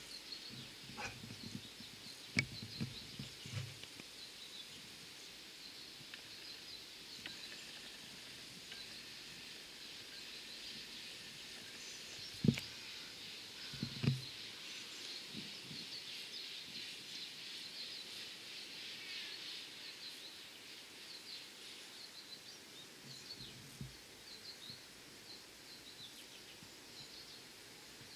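Faint birdsong of many short high chirps, with a few dull low thumps, the strongest about twelve and fourteen seconds in.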